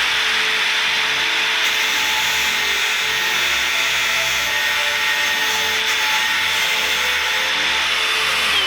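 Power grinder running steadily with its wheel against a piece of steel for a spark test: a steady grinding hiss over the motor's whine. Near the end the whine drops as the grinder winds down.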